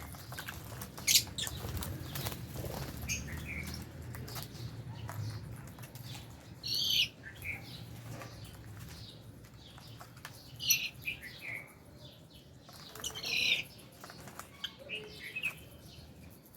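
Aviary flock of lovebirds and budgerigars: sharp, shrill chirps every few seconds with softer calls and short clicks between, over a low steady rumble.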